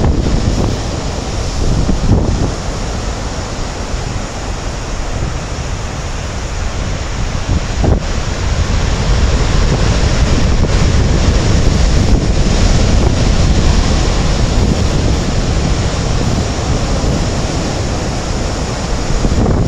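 Heavy, typhoon-driven surf on a rough sea, a dense wash of breaking waves with strong wind buffeting the microphone, growing louder about halfway through.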